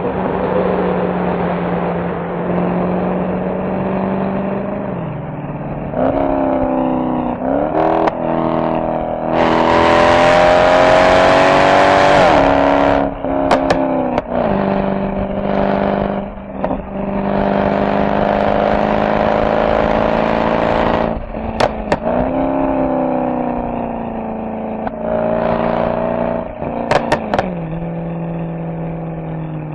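Mercedes-AMG SL63's V8 engine and exhaust under way, the note rising through repeated accelerations and dropping at each shift or lift-off. The loudest full-throttle pull comes around ten seconds in. A few short sharp exhaust cracks come at the shifts.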